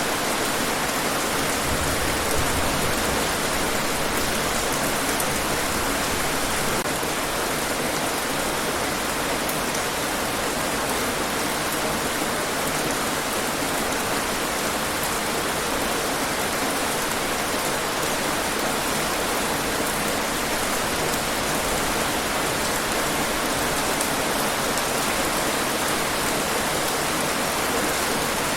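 Steady rain falling, an even hiss of drops with no let-up or change.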